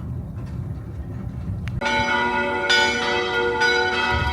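Church bells start ringing about two seconds in, with fresh strikes roughly every second layering their ringing tones over one another. Before the bells there is a low, steady rumble.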